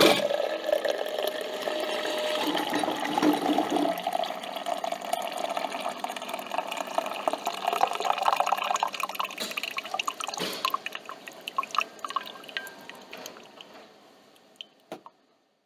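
Coffee trickling and dripping from a coffee machine into a cup, thinning into scattered drips and fading out, with one last drip near the end.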